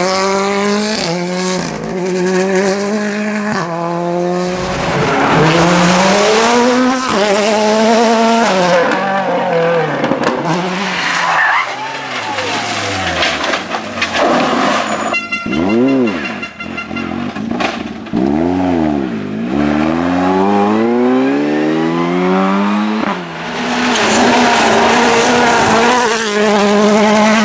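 Rally cars at full throttle on a stage, their engines revving up through quick gearshifts and dropping off under braking. In the middle stretch the engines sweep past with a rise and fall in pitch as the cars go by close.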